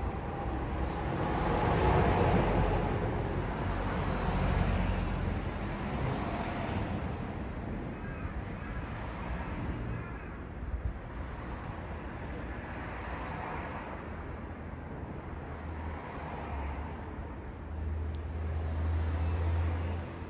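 Road traffic going by: a vehicle passes loudest about two seconds in, others swell and fade after it, and a low engine rumble builds near the end.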